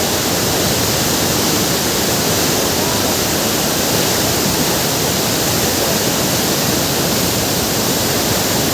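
Waterfall roaring close by: a loud, steady rush of falling water that does not change.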